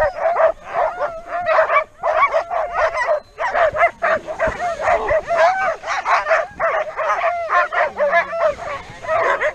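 A team of sled dogs barking, yipping and howling together in a dense, continuous chorus, the excited racket of dogs eager to start pulling.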